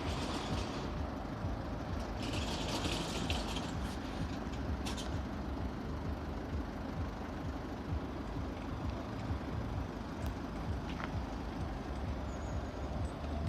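Steady low rumble of road traffic, with two short bursts of hiss, one at the start and one about two seconds in.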